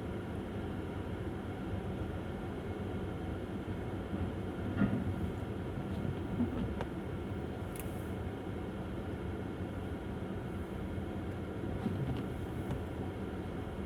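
Steady tyre and road noise from a Tesla Model S driving on a snow-covered road, with a few soft knocks from bumps about five, six and a half and twelve seconds in.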